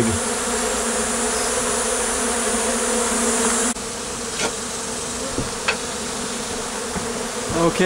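Honeybees from a large hive being cut out buzzing steadily as a dense swarm, with a steady hiss behind them that drops off abruptly about halfway through. A few faint ticks come near the middle.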